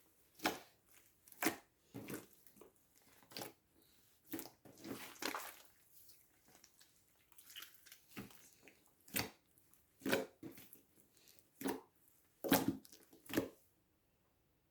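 Slime being squished and pressed by hand: about a dozen irregular wet squelches and pops with faint crackling between them, stopping shortly before the end.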